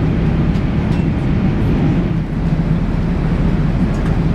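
Steady low rumble of an Airbus A380 airliner heard from inside the cabin.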